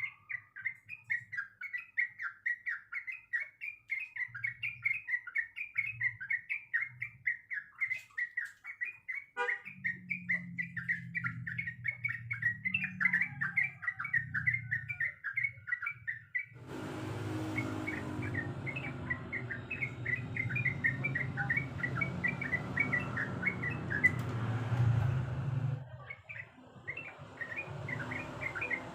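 Yellow-vented bulbul (trucuk) singing continuously in a rapid, chattering run of short repeated notes. Partway through, a steady rushing noise comes in under the song for several seconds.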